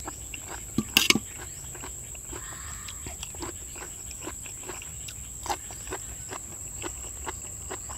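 Close-miked chewing with wet smacking mouth sounds and small clicks, and a spoon clattering against a plate about a second in. A steady high-pitched insect drone runs underneath.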